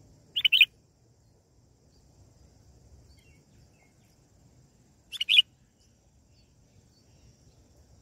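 Bird calls: two short bursts of about three quick, sharp chirps each, roughly five seconds apart.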